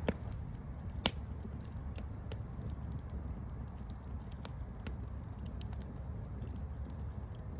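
Campfire burning: wood crackling in scattered sharp clicks over a steady low rumble, with one loud pop about a second in.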